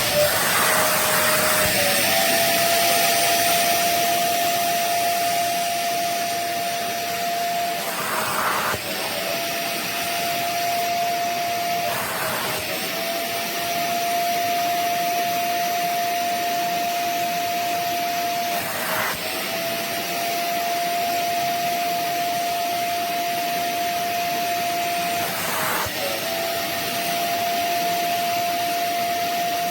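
Rivenara 450 W upholstery wet vacuum running with a steady, high motor whine and a rush of air. Four times the pitch dips briefly with a short burst of air noise before it recovers.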